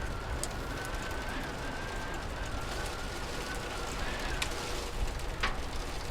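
Rainy-day ambience: a steady hiss of rain over a low rumble, with a few sharp ticks, the loudest near the end, and a faint thin high tone running through most of it.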